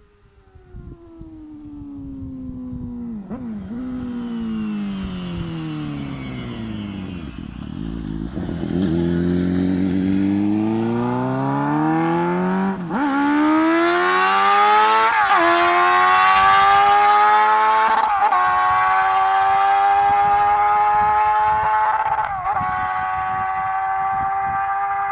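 2004 Suzuki GSX-R600 K4's inline-four engine through a Mivv GP carbon exhaust: the revs fall for several seconds, then climb hard in steps, each step cut by a short break and a drop in pitch, as on gear changes. It grows steadily louder.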